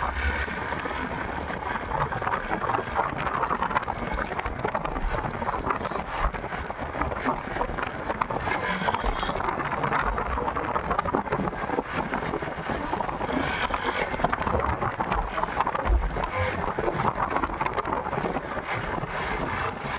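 Wind rushing steadily over a phone microphone on a moving motorcycle, with road and engine noise underneath.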